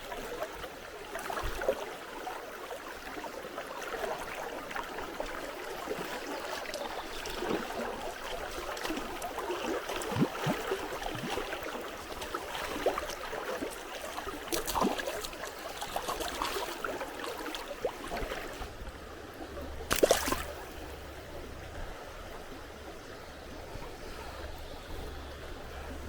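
River water flowing and gurgling, with scattered small clicks and knocks and one sharp knock about twenty seconds in.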